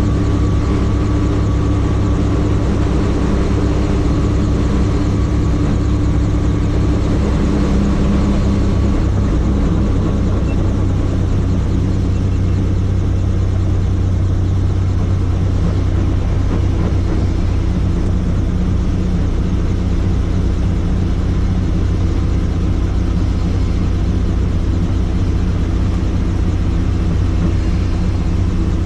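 Helicopter rotor and engine running with a loud, steady drone.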